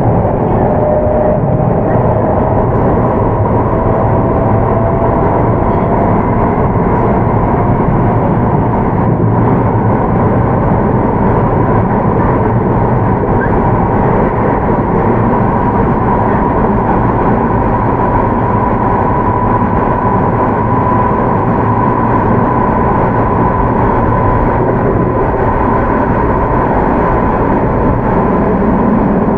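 Inside a Keio 8000 series electric train with Hitachi GTO-VVVF control, running at speed: a steady, loud wheel-and-rail rumble, with a traction motor whine rising slowly in pitch as the train gathers speed.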